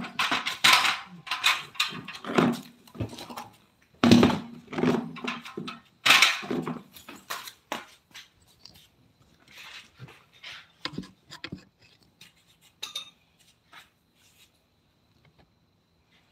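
An animal's vocal sounds in irregular loud bursts during the first seven seconds, then sparser, quieter short sounds that die away.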